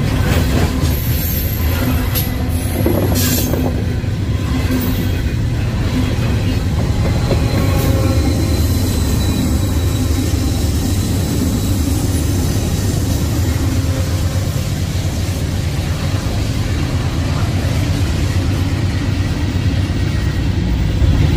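Norfolk Southern freight train rolling past at close range: a steady rumble of wheels on rail with a faint, thin wheel squeal, and a few clanks in the first few seconds. A locomotive goes by partway through.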